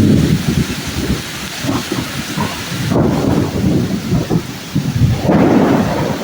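Thunder rumbling in swells, loudest at the start, about three seconds in and again near the end, over the steady hiss of heavy rain.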